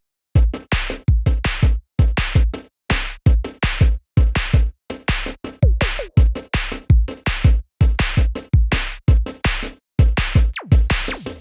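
Background electronic music with a steady drum-machine beat of heavy bass kicks and sharp hits.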